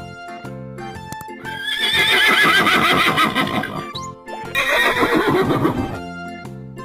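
Horse whinnying twice: a long neigh with a quavering, falling pitch about a second and a half in, then a second one shortly after. Background music plays throughout.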